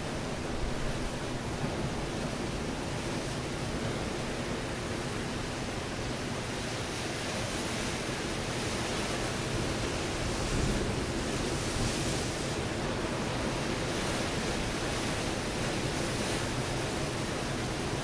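Ocean surf breaking on a rocky shore: a continuous wash of water noise, swelling a little partway through.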